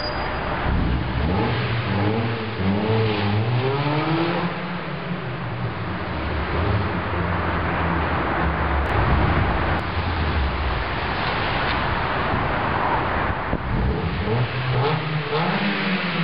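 Mazda Miata four-cylinder exhaust through an aftermarket MSM (Mazdaspeed Miata) muffler, the engine revving under acceleration: its pitch climbs over the first few seconds, holds steadier, then climbs again near the end.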